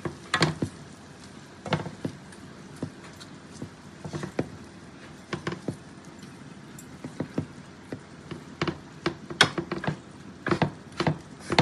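A metal spoon or spatula clicking and scraping against a cooking pot while a dish is stirred, in scattered irregular taps over a faint steady hiss.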